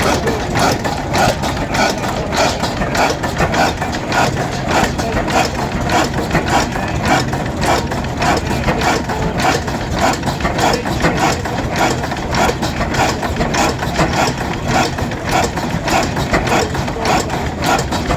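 An engine running steadily, with a quick, even beat of about four or five strokes a second.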